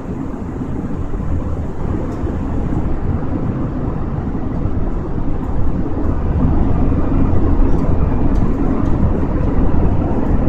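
Airliner cabin noise: a steady low roar of engines and rushing air that gradually grows a little louder.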